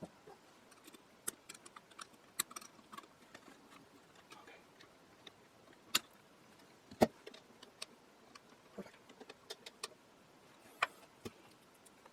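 Scattered light clicks and taps of small metal hardware and hand tools being handled, with two louder knocks about six and seven seconds in.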